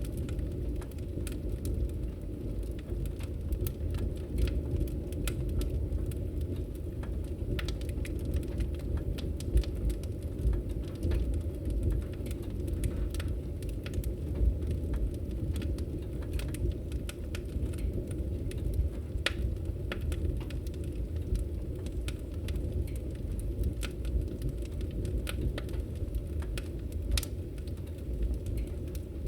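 Logs burning in a fireplace: a steady low rumble of flame with many sharp, irregular crackles and pops.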